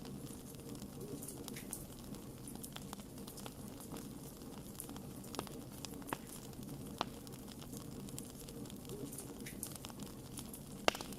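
Wood campfire crackling, with irregular sharp pops over a steady low rush of flames; the loudest pop comes near the end.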